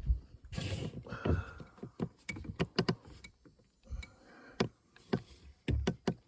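Fishing gear being handled on a boat: an irregular run of sharp clicks, knocks and short rattles, busiest in the first second and a half.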